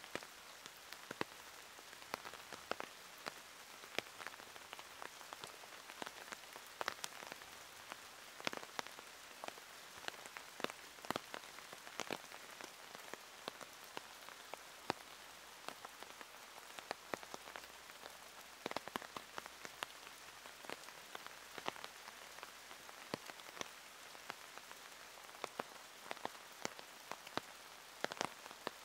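Steady rain falling, with frequent sharp clicks of single drops striking close by at irregular intervals.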